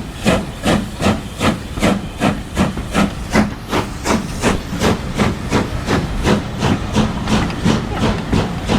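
Steam locomotive working under steam, its exhaust chuffing in even beats of about two and a half to three a second, slowly quickening as it gathers speed.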